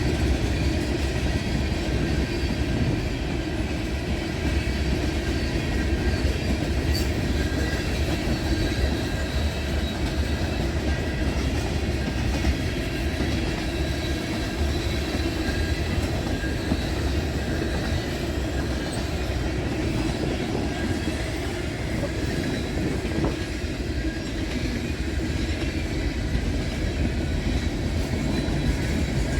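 Freight train cars, including tank cars, rolling past on the rails: a steady rumble with wheel clickety-clack.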